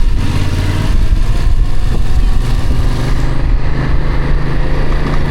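Motorcycle engine pulling steadily in first gear up a steep climb, loud and even.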